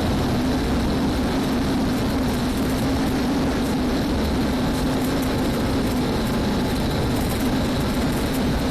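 Police cruiser driving at high speed in pursuit: a steady drone of engine and road noise.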